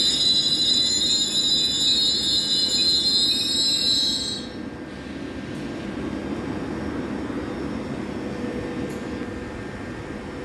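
A train's brakes and wheels squealing in several steady high tones as it slows to a stand. The squeal stops abruptly about four seconds in, leaving a steady low hum from the standing train.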